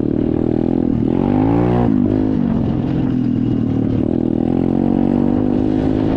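SSR 125 dirt bike's single-cylinder four-stroke engine running under way. It revs up about a second in, drops back at about two seconds, then holds steady.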